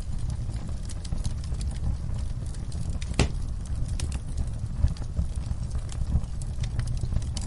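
Wood fire crackling in a fireplace: scattered snaps and pops over a low steady rumble, with one louder pop about three seconds in.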